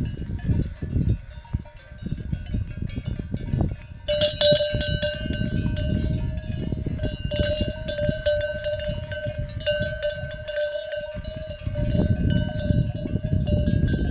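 Cowbells on grazing cattle clanking and ringing, starting about four seconds in and carrying on irregularly, over a low rumble.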